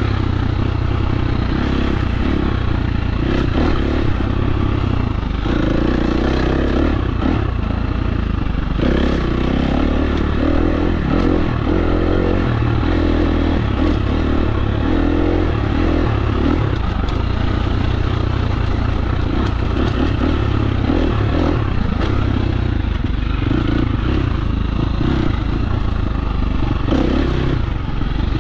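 KTM 350 SX-F dirt bike's four-stroke single-cylinder engine running under riding load, its note rising and easing with the throttle, over a constant clatter of knocks and rattles from the bike on rough trail.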